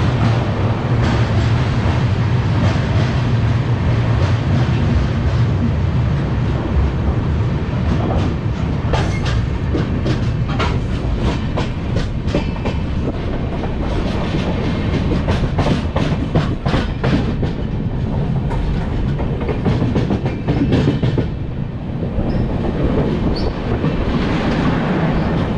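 Himsagar Express passenger train running on the track after pulling out of a station: a steady rumble of wheels and coaches, with a dense run of sharp wheel clicks over rail joints through the middle stretch.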